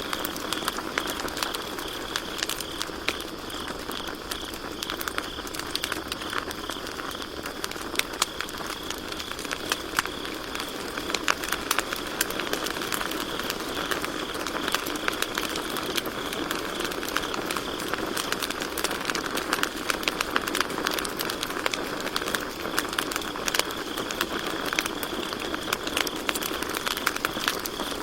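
Campfire crackling and popping with frequent sharp snaps over a steady hiss of burning wood, while crickets keep up a steady high chirring.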